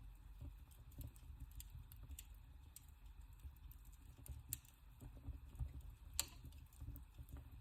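Wood fire crackling in a fireplace: faint, irregular pops and snaps over a low rumble of the burning fire, with the sharpest snap about six seconds in.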